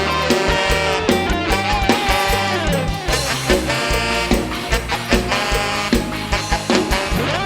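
Live band playing an upbeat instrumental passage with a steady beat.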